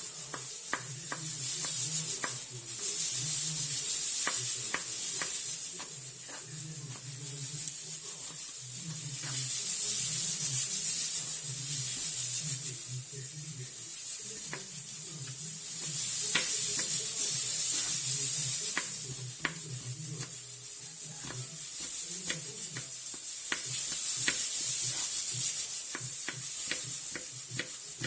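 Food sizzling in a frying pan as it is stirred. The sizzle swells and fades every several seconds, with light clicks of the utensil against the pan.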